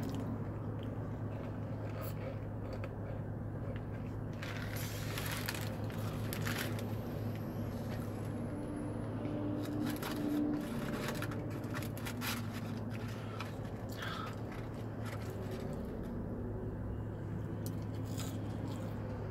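Person eating a fast-food burger and fries: chewing with scattered short crunches and clicks, over a steady low hum.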